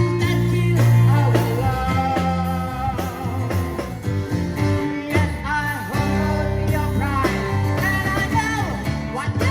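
A man singing a song with a bending, gliding voice over a guitar accompaniment and bass.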